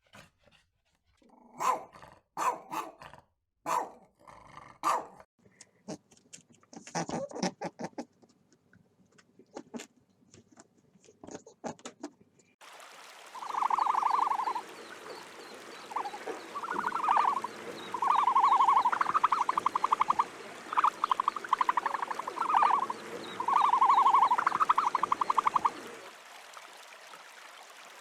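Animal calls. First a series of short, sharp calls at irregular intervals. Then, after an abrupt change of background, repeated calls about a second long with a rapid rattling pulse, loudest in the second half.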